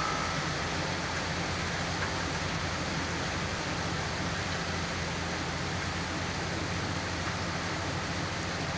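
Steady rain falling, an even hiss, with a low steady rumble underneath.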